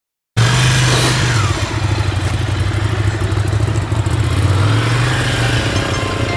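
Motorcycle engine running at low revs, its pitch rising and falling slightly with small throttle changes. It starts abruptly about a third of a second in.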